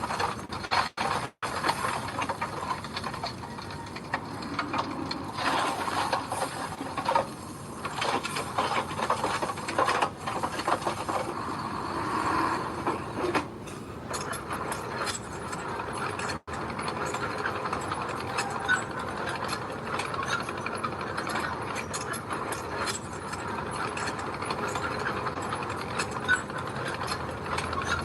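Bulldozer at work: a dense, steady metallic clatter and rattling, as of its tracks and machinery, over the running engine, with brief dropouts about a second in and around sixteen seconds.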